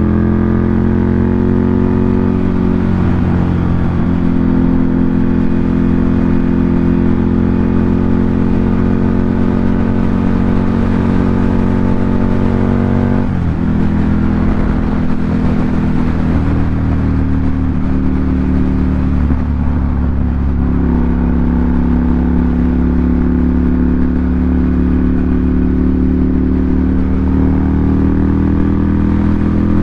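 Ducati Monster 797's air-cooled L-twin engine running through an SC Project aftermarket exhaust. The pitch eases down and holds, then rises again with the throttle. The note breaks sharply about halfway through and dips once more a few seconds later.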